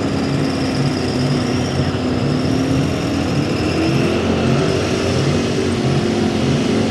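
Gasoline-engine 4x4 pickup truck running hard under load while pulling a weight sled. The engine is loud and steady, and its pitch climbs a little about three to four seconds in.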